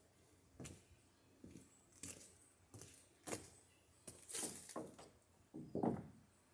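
Wooden boards and stickers being set down on a lumber stack: a series of irregular wooden knocks and clatters, the loudest near the end.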